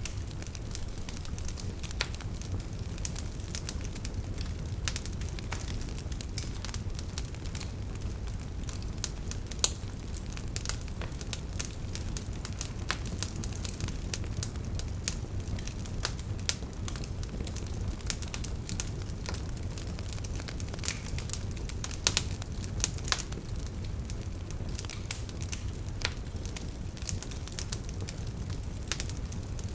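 Campfire burning: firewood crackling and popping in frequent irregular snaps over a steady low rumble of the flames, with a few louder pops about ten seconds in and again past twenty seconds.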